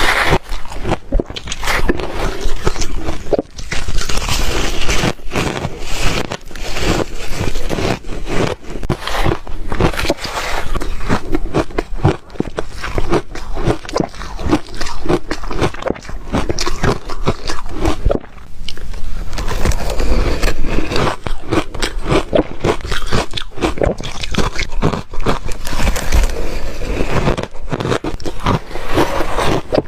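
Ice being bitten and chewed close to the microphone: a continuous run of loud, sharp crunches and cracks.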